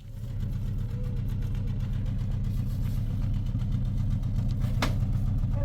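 A vehicle engine running steadily at idle, coming in abruptly at the start, with one sharp click near the end.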